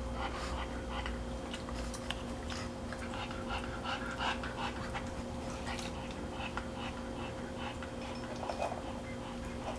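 A puppy eating, with quick irregular wet smacks, licks and panting breaths, over a steady low hum.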